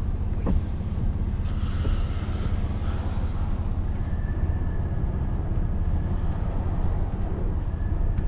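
BMW S55 twin-turbo inline-six in an F80 M3 running steadily on the road through catless downpipes and a valved axle-back exhaust with the valves open, giving a low, even drone. A faint high whine comes in over it in the second half.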